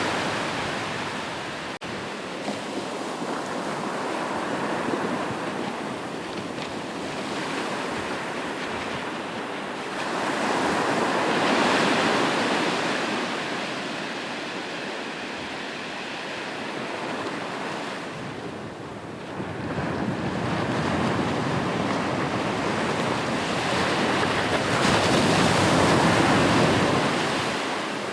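Sea waves breaking on a shore: a steady rush of surf that swells into two big surges about thirteen seconds apart and falls back between them.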